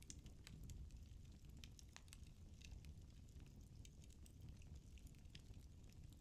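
Firewood burning in a fireplace, crackling faintly with frequent small irregular pops and snaps over a low steady rumble of the flames.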